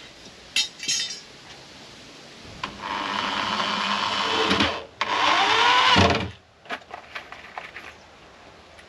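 A small power tool's motor runs for about two seconds, stops briefly, then runs again for about a second with its pitch sweeping up and down. Two short sharp noises come before it, and a few small clicks after.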